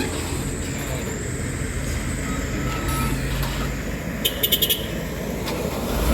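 Heavy truck engine running steadily on the climb, a low rumble throughout, with a quick run of about five sharp pulses a little past four seconds in.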